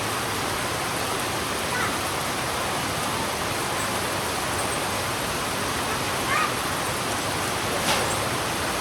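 Heavy rain falling steadily on a road, an even hiss with a few louder drops or splashes standing out, the sharpest one near the end.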